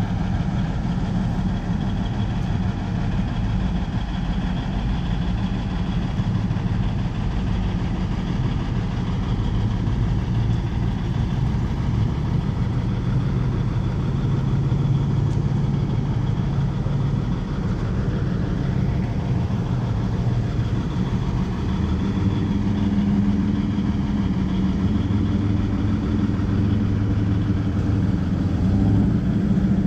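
Car and truck engines idling and driving slowly past, one after another, running steadily with shifting engine tones. A louder engine comes through about two-thirds of the way in.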